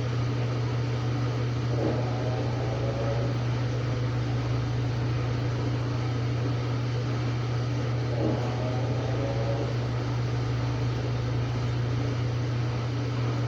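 Samsung WA45T3200AW top-load impeller washer running mid-cycle: a steady motor hum, with a brief swell of higher sound about every six seconds.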